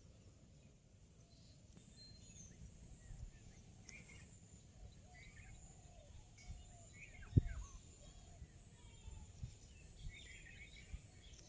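Faint, scattered bird chirps over quiet background hiss, with one sharp low thud about seven seconds in and a few softer knocks after it.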